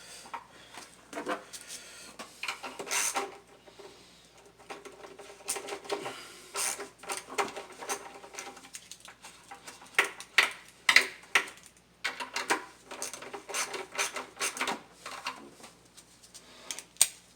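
Irregular metallic clinks and rattles of bolts and hand tools being handled while the intake manifold bolts are started down by hand.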